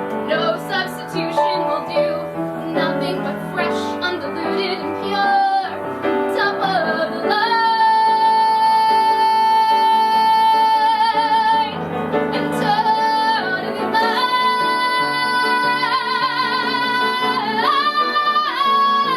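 A woman singing a musical-theatre song over piano accompaniment, holding long high notes with vibrato in the middle and near the end, with a note sliding upward shortly before the end.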